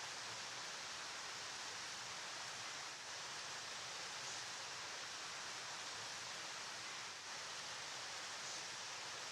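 River water flowing, a steady, even rushing hiss.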